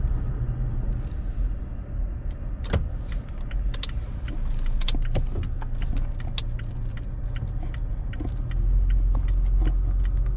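Steady low road rumble inside a moving car, with scattered small clicks and rattles throughout.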